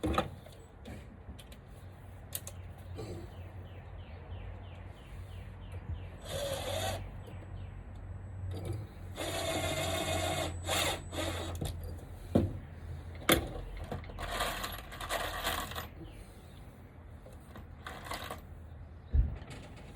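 Power drill running in several short bursts of one to two seconds, drilling or driving screws into wood, with a few sharp knocks between the runs.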